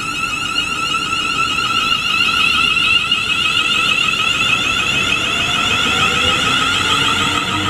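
Class 360 electric multiple unit pulling away, its traction motors giving a high, steady whine with a fast warble, and a lower tone rising in pitch near the end as the train gathers speed.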